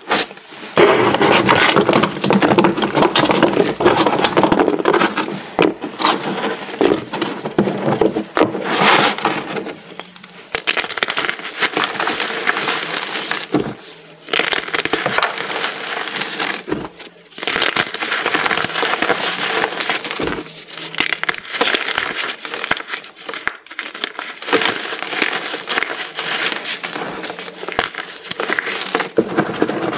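Small pressed pieces of reformed gym chalk being crushed: a dense, continuous dry crunching and crackling with a few short pauses.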